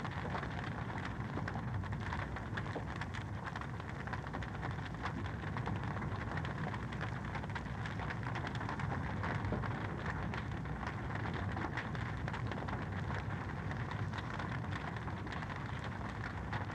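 Wood fire crackling steadily in a fireplace: a dense run of small pops and snaps over a low rumble of the flames.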